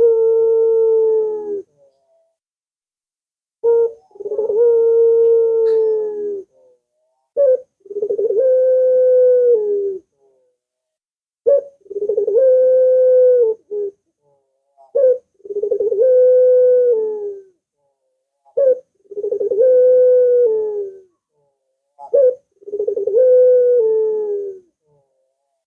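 A puter dove cooing over and over, about seven calls roughly every three and a half seconds. Each is a short sharp note and then a long low coo that sags a little in pitch at its end. This is a lure call meant to set caged puter doves calling.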